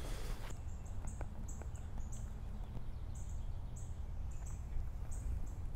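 A bird chirping: short high notes repeated about two or three times a second, over a low steady rumble of outdoor noise.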